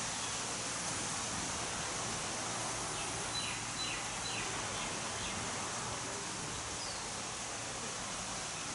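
Steady outdoor background hiss, with a quick run of about five short, falling chirps from a bird about three seconds in and one more faint high note near seven seconds.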